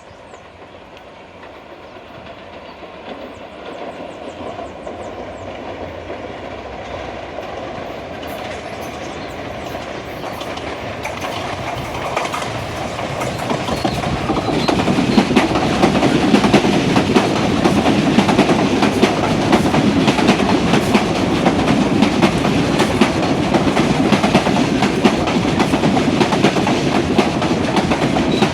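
SuperVia CNR 3000-series electric multiple-unit train approaching and passing close by. It grows steadily louder over about fifteen seconds, then holds a loud, steady rumble with rapid clacking of wheels over the rails.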